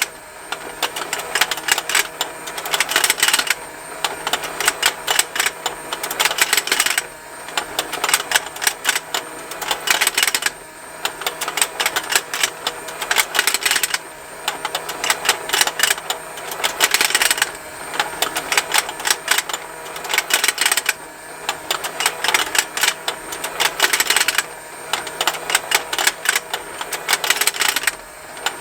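Motorized plastic fishing-game toy running: a dense, rapid plastic ticking from its turning mechanism, mixed with the snapping of the plastic fish. The ticking swells and briefly dips in a regular cycle about every three and a half seconds as the pond rotates.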